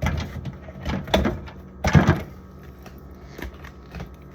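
Food containers knocking and clattering as they are set onto refrigerator shelves: a handful of sharp knocks, the loudest about two seconds in.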